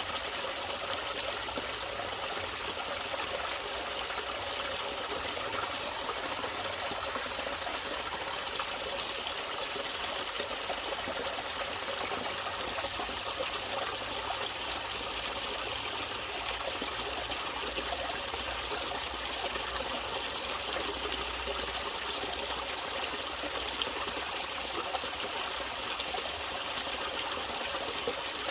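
Water flowing steadily in a natural stream, a continuous trickling and babbling with no breaks.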